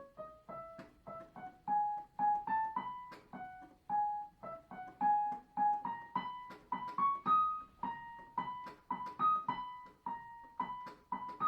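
Piano playing a single-line right-hand melody softly, one note at a time, mixing short detached notes with longer held ones and climbing gradually in pitch.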